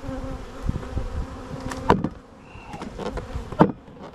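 Honeybees buzzing steadily around an open hive, with two sharp knocks partway through and near the end.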